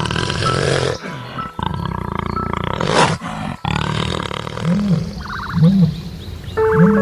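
A big cat roaring: two loud roars about three seconds apart, then three short low swooping tones.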